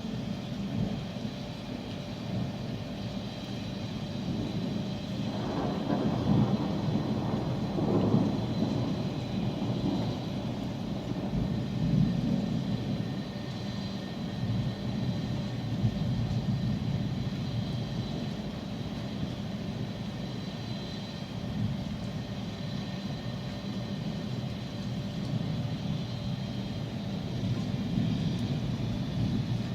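Thunder rolling in a rainstorm, loudest from about five to nine seconds in, with a smaller swell a few seconds later, over a steady low rumble.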